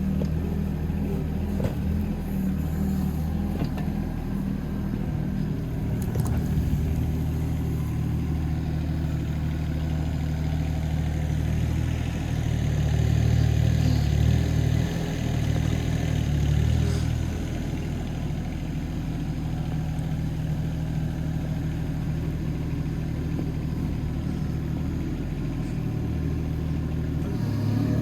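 Hitachi ZX18 mini excavator's diesel engine running steadily. It grows louder in the middle, from roughly twelve to seventeen seconds in, then settles back.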